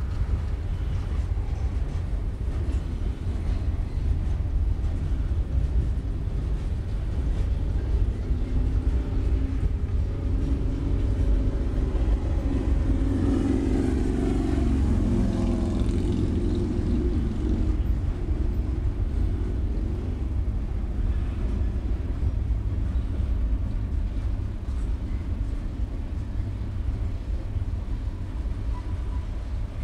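Freight train cars rolling past with a steady low rumble. Around the middle a louder swell with several pitched tones rises and fades away.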